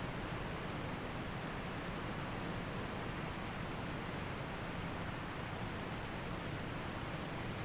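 Waterfall and creek water rushing steadily, an even, unbroken noise with no change in level.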